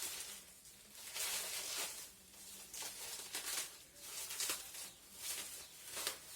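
Packaging being handled and rustling in several short, irregular bursts.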